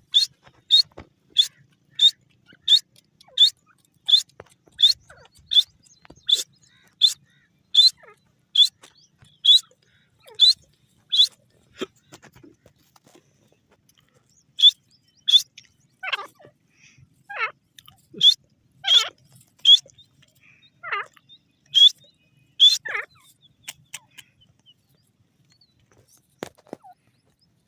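Grey francolin (desi teetar) calling: a long series of short, sharp, high notes repeated about every three-quarters of a second. After a brief pause about halfway, the notes return mixed with calls that slide down in pitch, then thin out near the end.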